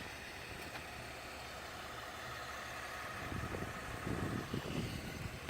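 A vehicle engine idling steadily, with uneven low rumbling starting a little past halfway through.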